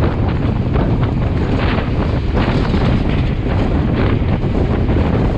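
Wind buffeting a microphone held out of a moving passenger train, over the steady running noise of the carriage on the rails.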